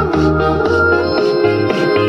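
Music played through a homemade 10-inch miniscoop speaker box during a sound check. Heavy bass notes change about every half second beneath a sliding keyboard-like lead melody.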